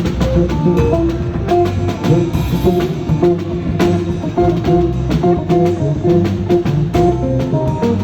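Live band playing an instrumental passage: plucked electric guitar notes over bass and a drum kit.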